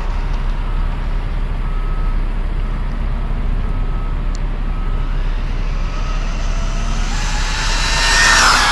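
Steady low rumble of idling vehicles with a faint beep repeating about once a second. Near the end, a rising whine and hiss swell as the RC truck's KingVal 2845 5900 kV brushless motor runs at speed close by.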